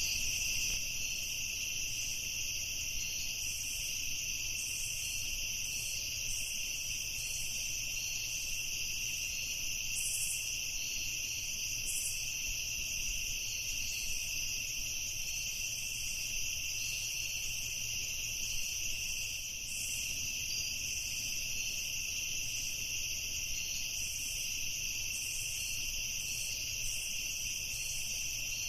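Night-time chorus of crickets: a continuous high trilling at two pitches, with rapid flickering chirps above it.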